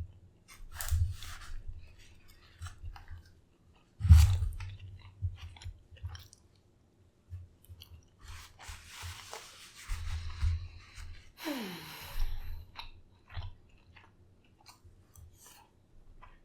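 Close-miked chewing and mouth sounds of someone eating lamb and rice: wet clicks and smacks between bites. A louder thump comes about four seconds in, and a short falling squeal near the end.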